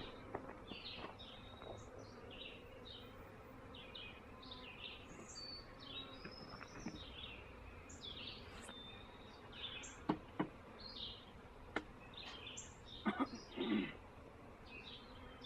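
Faint steady buzzing of a honeybee swarm clustered in and around a hive box, with songbirds chirping throughout. A few sharp taps come about ten seconds in and again near the end.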